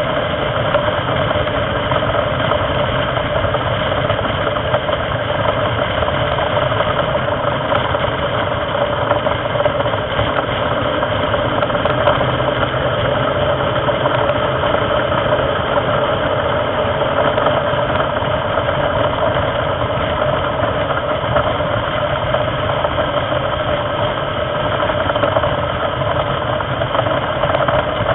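Racing car's engine running hard and steady, heard onboard at racing speed, with wind and road noise mixed in.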